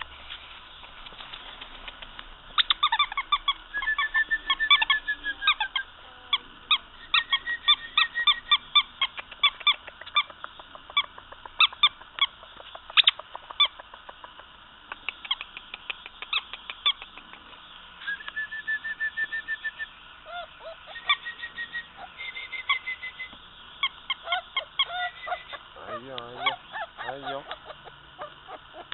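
Miniature dachshund puppies squealing and whining: a long run of short, high-pitched squeaks, broken by a few drawn-out whines about a second long.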